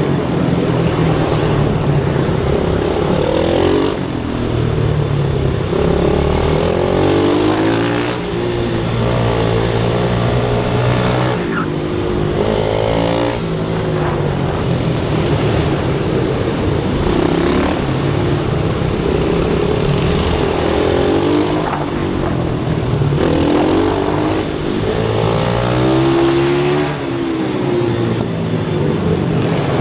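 Pit bike's small single-cylinder engine ridden hard, revving up and dropping back over and over: the pitch climbs through each gear, then falls as it shifts or slows for a corner.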